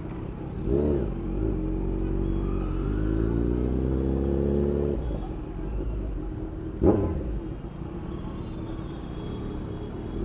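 Motorcycle engine running in traffic, rising in pitch as it accelerates for a couple of seconds around the middle, then easing off. There is a short burst about a second in and a sharp, brief loud sound about seven seconds in.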